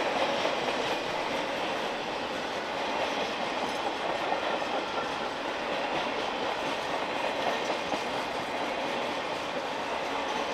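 Norfolk Southern Triple Crown RoadRailer train rolling past: steady wheel-on-rail noise with a faint clickety-clack, holding at an even level.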